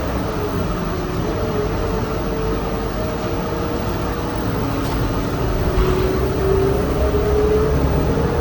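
City bus running while riding inside: a steady low rumble with a whining drivetrain tone that shifts pitch, rising a little about two-thirds of the way through.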